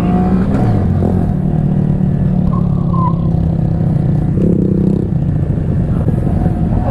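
Honda Grom 125 cc single-cylinder motorcycle engine running at fairly steady revs while riding, with a second engine note joining briefly about four and a half seconds in.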